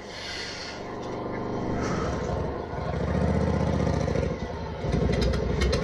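A motor vehicle engine running and revving, growing louder over the first few seconds.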